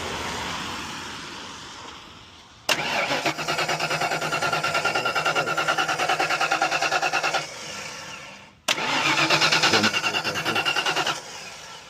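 Fox-body Ford Mustang engine cranking on the starter in two spells of a few seconds each, with an even chugging rhythm, and never catching. It cranks without firing because it has no fuel pressure.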